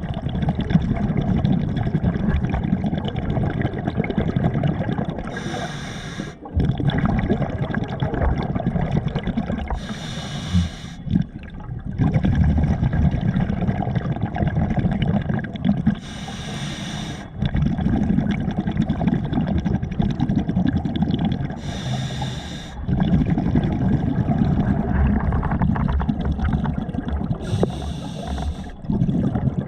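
Water sloshing and gurgling close to the microphone, with a brief hissing rush about every five to six seconds.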